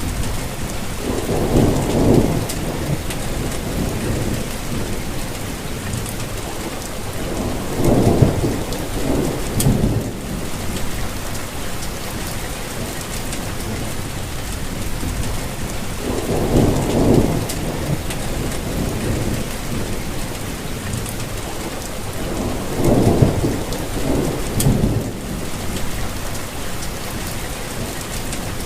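Steady rain falling, with four low rumbles of thunder, each swelling and fading over a couple of seconds, roughly every seven seconds.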